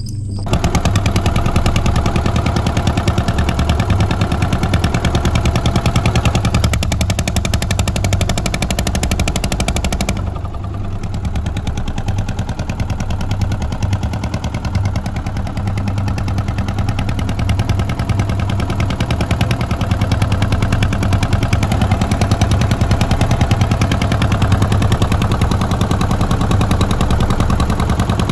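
Small fishing boat's engine running steadily and loudly, with a rapid, even putter of firing pulses.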